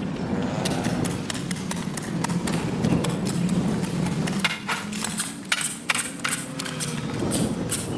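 Hand tools knocking and scraping on pavement: a run of short knocks, thicker in the second half, over a steady low hum.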